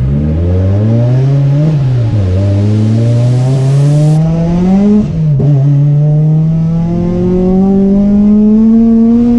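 Supercharged Acura TSX four-cylinder engine at full throttle, heard from inside the cabin, revving up through the gears. The pitch climbs, falls with an upshift about two seconds in and again past the middle, then climbs more slowly to the end.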